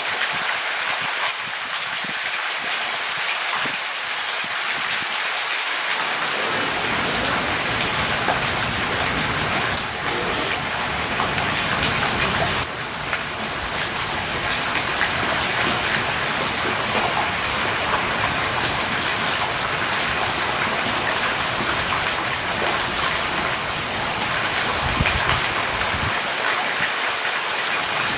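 Heavy rain falling steadily during a thunderstorm, a dense, even hiss.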